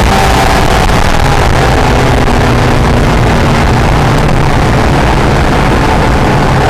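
Acura NSX's V6 engine under loud, steady wind and road noise at track speed. The high revving engine tone drops away at the start, leaving a lower engine note under the rush, and climbs back in near the end as the car pulls again.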